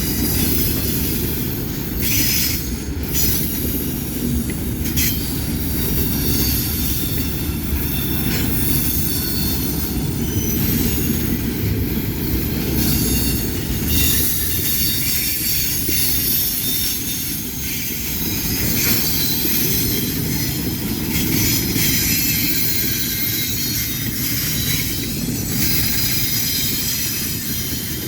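Freight train's cars rolling past on the rails: a steady, unbroken rumble, with high-pitched squealing from the wheels on and off.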